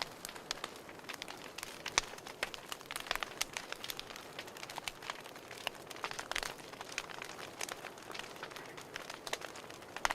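Wood fire crackling in a fireplace: frequent irregular pops and snaps over a soft steady hiss.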